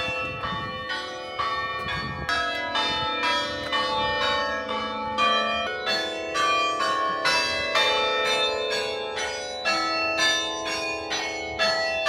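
Church bells ringing in a quick, steady sequence of strikes, about three a second, each note ringing on into the next, in the manner of change ringing.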